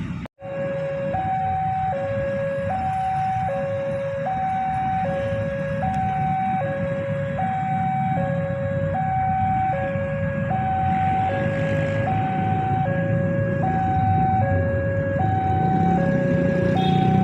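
Two-tone hi-lo siren alternating steadily between a high and a low note, a full cycle about every one and a half seconds, over a low rumble that grows louder near the end.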